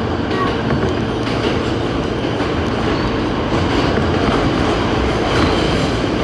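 New York City subway A train running along the track, a steady loud rumble of wheels on rails.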